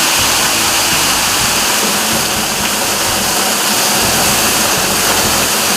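Waterfall rushing: a loud, steady, even noise.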